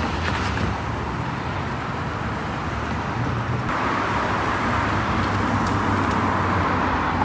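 Steady running noise of a moving vehicle: a low rumble under a hiss, the hiss growing louder about four seconds in.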